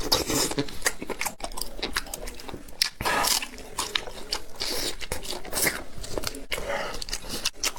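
A person biting and chewing food, with irregular crunchy, wet mouth sounds.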